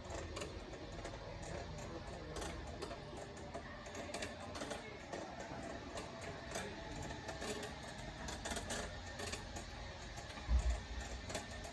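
Faint store background music, with irregular sharp clicks and ticks throughout and a low thump about ten and a half seconds in.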